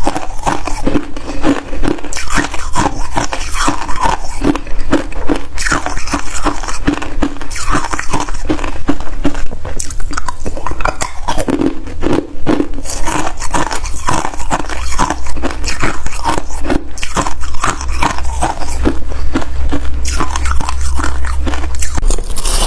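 A person biting and chewing crunchy freezer frost, close to the microphone: a continuous run of crisp crunches, with a low rumble underneath in the second half.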